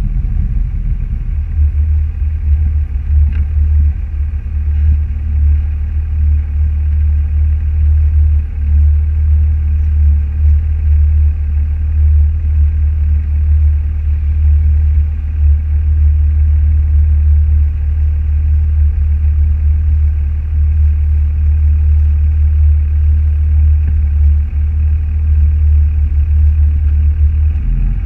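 Steady low rumble of a car on the move, engine and road noise running evenly without any clear revving.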